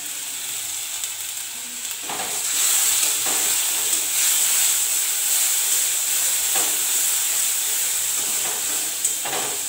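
Spice and onion pastes frying in hot oil in a metal kadai: a steady sizzling hiss that grows louder about two seconds in, with a metal spatula stirring and scraping the pan.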